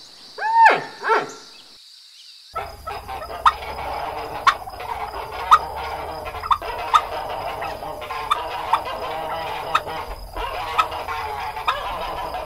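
Poultry calling: two loud calls that rise and fall about a second in, then, after an abrupt cut, a flock with sharp repeated calls about once a second over a steady background of birds.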